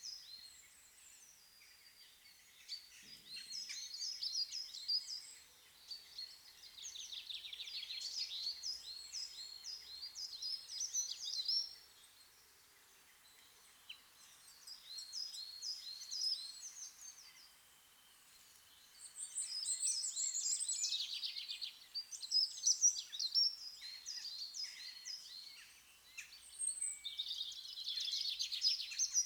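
Small songbirds singing in runs of quick chirps and trills a few seconds long, with short pauses between runs.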